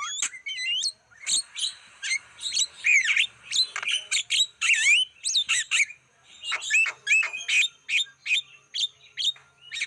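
Javan myna (jalak kebo) singing: a fast, varied run of harsh squawks, chirps and sweeping whistles, several notes a second with short gaps.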